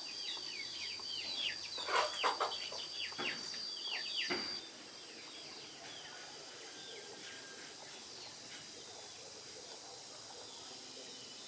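Birds chirping in quick falling chirps, several at once, over a steady high-pitched tone. Both stop abruptly about four and a half seconds in, leaving faint outdoor background.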